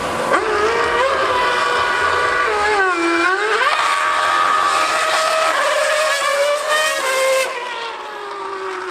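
Racing car engine at high revs; its pitch drops as it slows about three seconds in, then climbs again in steps through the gears.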